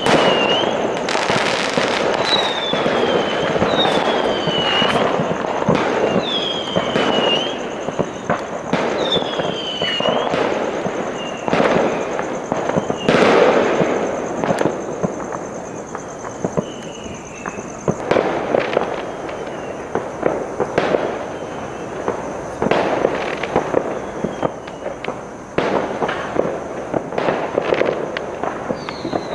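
Many fireworks going off together: a dense, continuous run of bangs and crackles. Whistling fireworks sound over it, each whistle falling in pitch, coming every second or two in the first half and fainter later.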